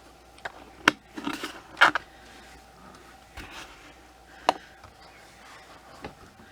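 Handling noise: a few sharp clicks and knocks with a brief scratchy rustle, as small hard objects are moved about on a table.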